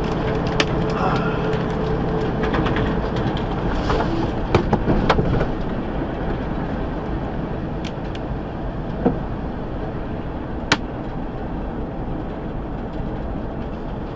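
Steady noise of a vehicle driving, with a few short sharp clicks and knocks over it, the sharpest about eleven seconds in.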